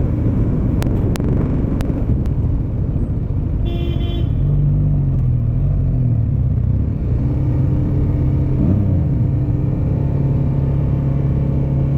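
Motorcycle engine running with rumbling wind noise while riding, with a few sharp clicks in the first couple of seconds. A brief vehicle horn toot comes about four seconds in. After it the engine settles into a steady low note.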